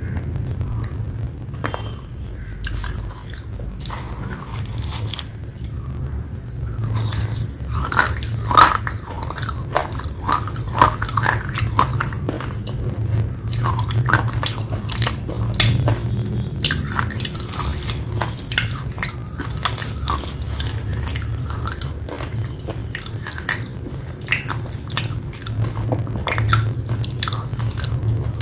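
Close-miked chewing of wet red clay paste: soft crunching and moist mouth clicks that come irregularly and thickly, over a steady low hum.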